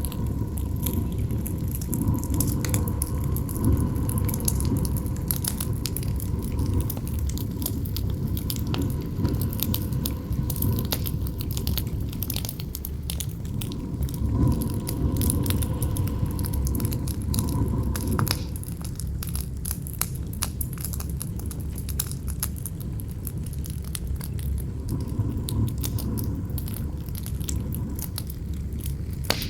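Campfire crackling with frequent sharp pops over a low rumble of wind, with a faint howl of wind that swells and fades a few times.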